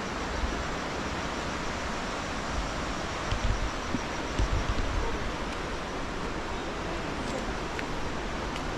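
Steady rush of water from a small waterfall, with a few low bumps about a third and halfway through.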